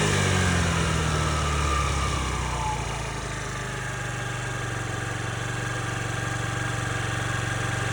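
Honda Dio AF62 scooter's 50cc single-cylinder four-stroke engine running. Its revs fall back over the first few seconds, and then it idles steadily.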